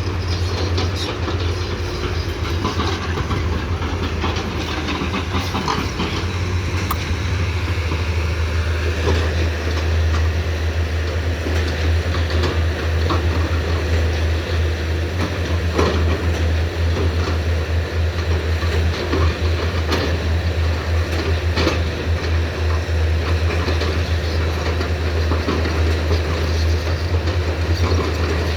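Komatsu PC210 excavator's diesel engine running steadily, with a strong low hum and scattered knocks and clatter throughout.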